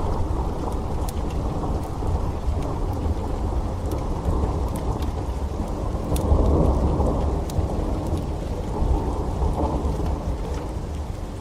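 Heavy steady rain with a deep low rumble that swells about six to seven seconds in, scattered with sharp crackles and pops from a wood fire.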